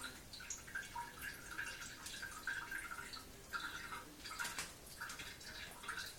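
Liquid dripping and trickling irregularly into the water of a toilet bowl, in many small, uneven splashes.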